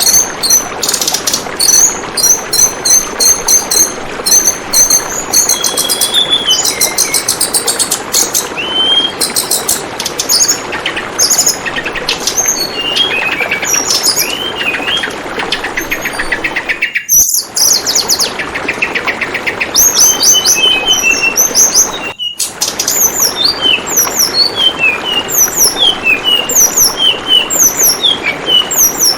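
Tledekan bambu bird singing in rapid runs of short, high chirps and quick sweeping notes over a steady babble of flowing water. The whole sound cuts out briefly twice, about two-thirds of the way in.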